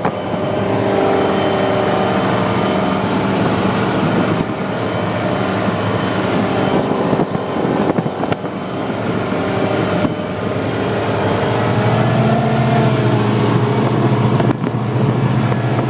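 Motorboat engine running at full rpm as the boat makes a pass, a steady drone with a thin high whine over it; its low tones swell louder about three quarters of the way through as the boat comes closest.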